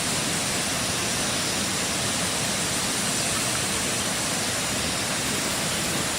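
A steady, even rushing noise with no breaks, strokes or pitch through the whole stretch.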